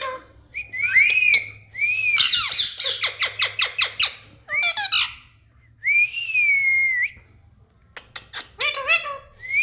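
Ringneck parrot whistling and squawking: a few short rising-and-falling whistles, then a quick run of rapid chattering calls about two to four seconds in, a single long arched whistle around six seconds in, and more quick calls near the end.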